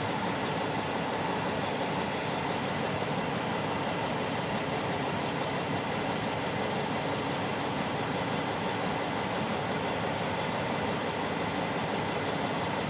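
Steady, unchanging whirring hum of a truck cab's air-conditioning fan running, with the truck's engine idling underneath.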